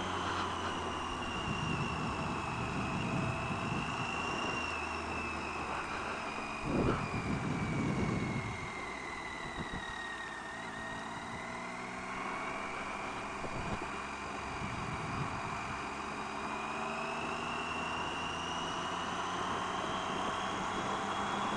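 Triumph Tiger 800 XRt's three-cylinder engine running on the move, its whine falling in pitch over about ten seconds and then rising again. A brief louder rush comes about seven seconds in.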